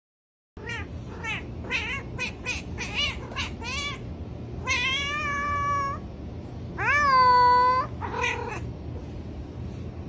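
A cat meowing over and over: a quick run of short meows, then two long drawn-out meows, the second the loudest, and a last short one.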